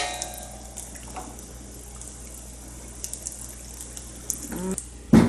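Breaded squash and zucchini slices frying in olive oil in a pan: a steady sizzle with scattered small crackles.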